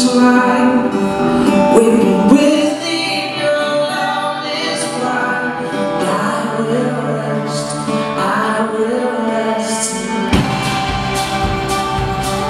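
Live worship music: singing over acoustic guitar, with drums and bass coming in about ten seconds in.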